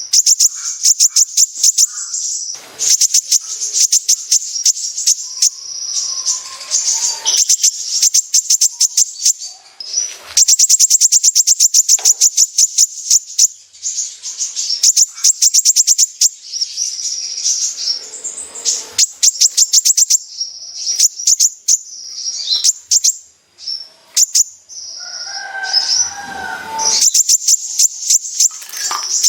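Kolibri ninja sunbird singing its besetan song: very rapid, high-pitched rattling trills of clipped notes, delivered in runs of a second or two with short breaks. A lower, rougher sound comes in briefly near the end.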